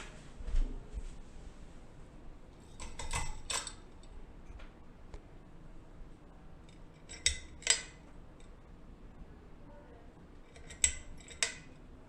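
Three pairs of sharp metallic clicks, the two clicks of each pair about half a second apart, coming roughly every four seconds over a faint steady background.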